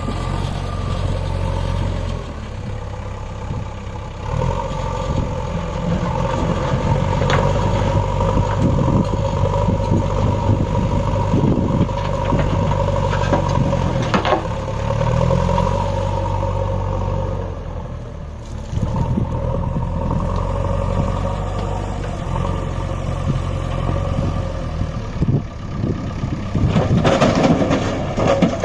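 Tractor diesel engine running under heavy load as it pulls a loaded trolley, its pitch shifting a little partway through, with occasional clattering.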